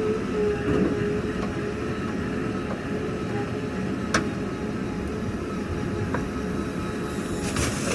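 Heavy diesel machinery running steadily, with a faint constant whine over the engine noise. A sharp click comes about four seconds in, and a brief hiss near the end.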